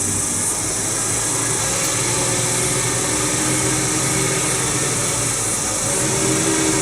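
Heavy truck engine running steadily, with a constant rushing noise over a low engine note.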